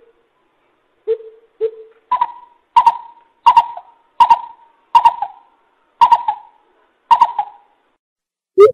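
Greater coucal hooting: two low hoots about a second in, then a slower series of seven louder, higher-pitched hoots.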